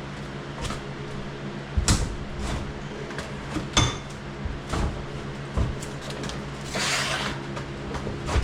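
A steady machine hum with scattered clunks and knocks of parts and tools being handled, and a short scrape or rattle near the end.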